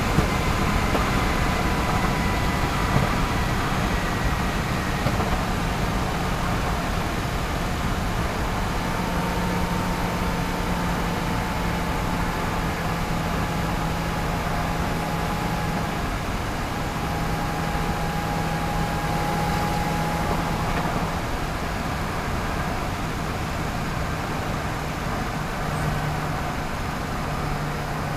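Supercharged Chevrolet Camaro ZL1 V8 running at steady, moderate revs on the move, under a constant even hiss of road and tyre noise. The engine pitch shifts only slightly, with no hard revving.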